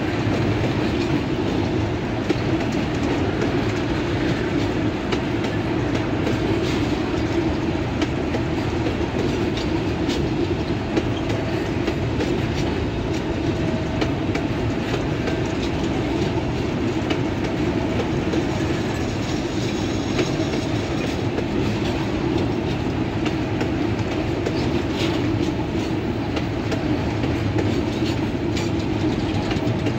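Freight train's covered hopper wagons rolling past close by: a steady rumble of steel wheels on rail with a continual clickety-clack of wheels over rail joints.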